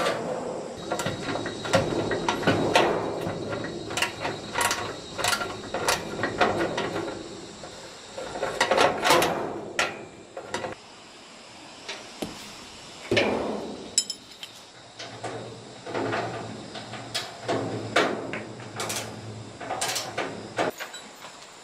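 Irregular metal clanks, knocks and ratcheting from hand tools working on heavy truck front-axle parts. A low steady hum joins about 15 seconds in and stops shortly before the end.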